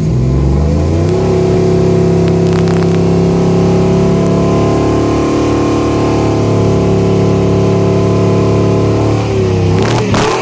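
A truck's engine climbing in speed over the first second, then held at a steady high speed for about eight seconds before dropping back near the end.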